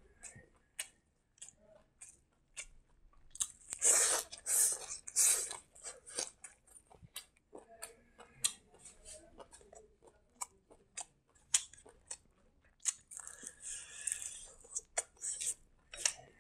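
Close-miked mouth sounds of a man eating rice with his hands: chewing with many short wet clicks and smacks, and louder, noisier stretches about four seconds in and again about thirteen seconds in.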